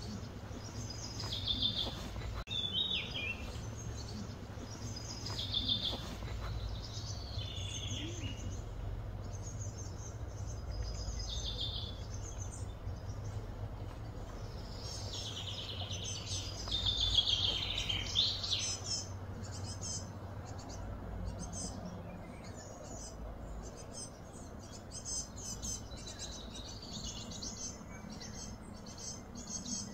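Birds chirping and singing in short, repeated descending phrases, busiest in the first two-thirds and thinning to scattered chirps later, over a steady low hum.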